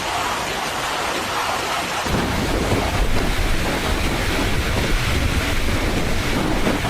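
Storm noise: a steady hiss of heavy rain, joined about two seconds in by a much louder low rumble that carries on.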